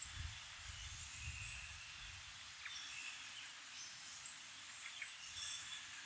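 Faint calls of small birds: short, thin, high chirps and notes scattered through, with several birds calling. A low rumble sits under them for the first two seconds.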